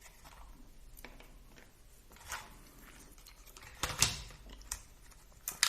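Small plastic RC car parts being handled and knocked together: a few scattered light clicks and taps, the loudest little cluster about four seconds in.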